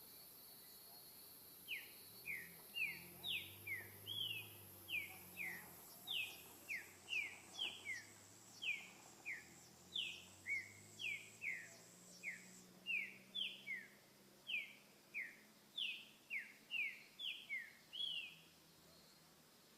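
A trinca-ferro (green-winged saltator) singing a long run of short, quickly repeated whistled notes, each sliding down in pitch, about two a second. The bird starts about two seconds in and stops shortly before the end. A steady high insect-like tone runs underneath during the first part.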